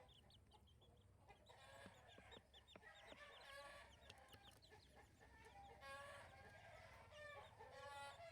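Chicken clucking softly in a run of short calls, mixed with many brief high chirps.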